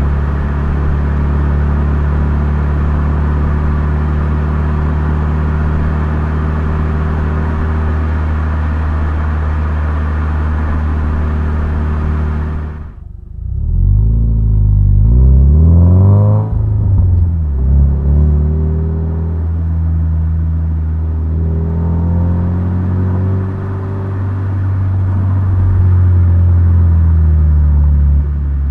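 Toyota 86's 2.0-litre flat-four boxer engine running while the car is driven. It holds a steady note for about thirteen seconds, then the engine speed falls and rises over a few seconds, as with a gear change, before settling into a steady note again.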